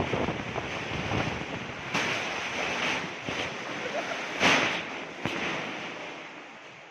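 Strong wind gusting and buffeting the microphone over rough, splashing water, with louder surges about two seconds in and again about four and a half seconds in, easing off toward the end.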